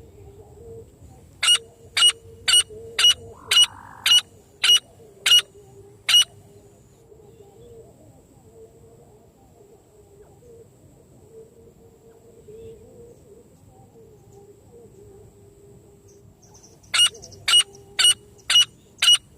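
Francolin (teetar) call: a run of about nine sharp, high notes, roughly two a second, then a pause of some ten seconds before a second run starts near the end.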